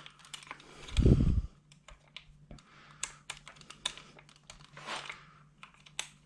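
Irregular small clicks and taps of hands working plastic and metal parts of a 1/10 scale RC truck while fitting a centre drive shaft, with one dull low thump about a second in.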